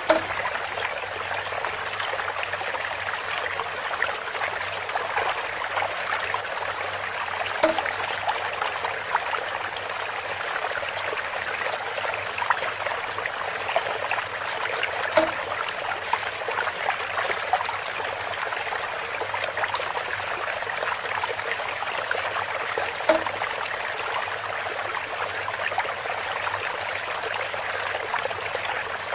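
Water trickling steadily through a bamboo water feature, with a short pitched knock repeating about every seven to eight seconds, four times.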